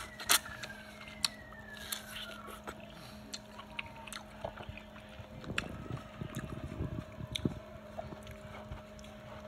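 Close-up biting and chewing of a slice of half-ripe, still-crunchy mango: sharp crunches and wet mouth clicks, busiest from about five and a half to seven and a half seconds in. A faint steady hum sits underneath.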